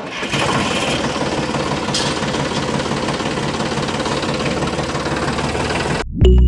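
Small motor running steadily with a fast, even rattle, cutting off suddenly near the end.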